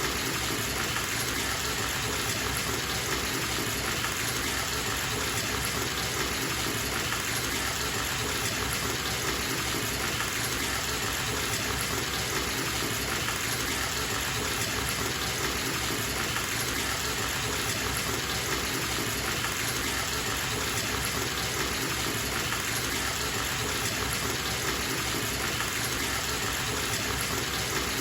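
Bathtub tap running, water gushing steadily into the tub as it fills.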